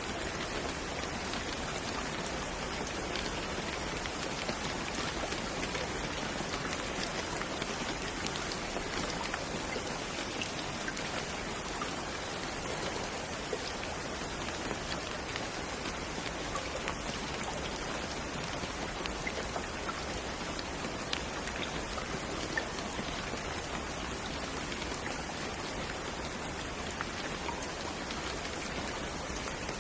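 Steady rain falling: an even hiss of rain with scattered individual drop ticks, unchanging throughout.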